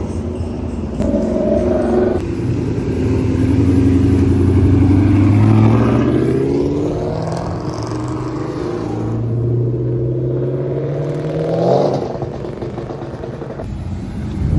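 Muscle-car engine revving and accelerating, its exhaust note climbing in pitch twice; the second climb cuts off suddenly about twelve seconds in.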